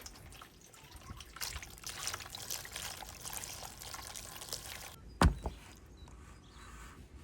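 Water trickling and pouring with small splashy ticks for about four seconds, then it stops and there is one sharp knock, with a smaller knock just after.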